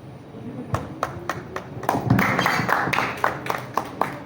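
Audience clapping. Separate claps start about a second in, then pick up into denser applause.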